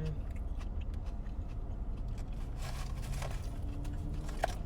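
Steady low rumble in a parked car's cabin, with faint rustling and a few soft clicks of someone eating about three seconds in.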